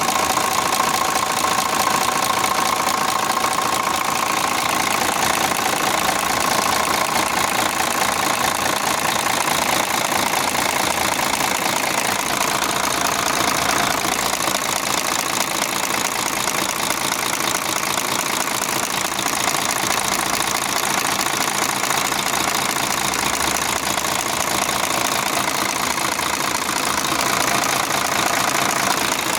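Mercedes-Benz Actros truck diesel engine idling steadily, with a fast, even clatter.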